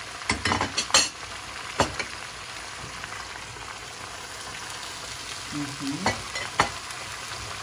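Meat, onion and carrot frying in oil in a kazan, sizzling steadily as the base for plov. A cluster of sharp clacks against the pot comes about half a second to a second in, another near two seconds, and two more near the end.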